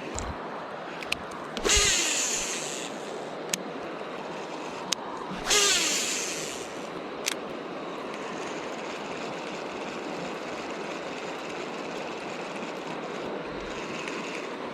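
Steady rush of river water near rapids, with three loud swishes and a few sharp clicks over the top.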